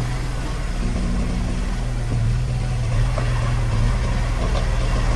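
Heavy diesel engine of a bulldozer or dump truck running steadily at a constant speed, with a low, even hum.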